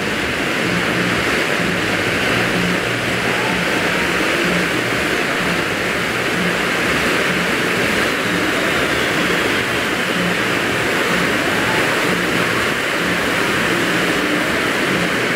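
Firework fountain (ground volcano) burning with a loud, steady spraying hiss.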